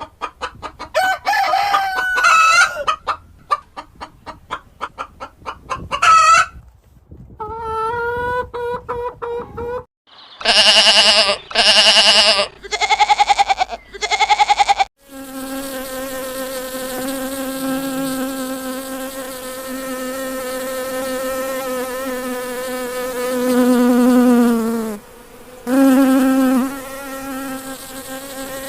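Chickens clucking and calling, with several loud drawn-out calls, for about the first fifteen seconds. Then a steady insect buzz, briefly broken about twenty-five seconds in.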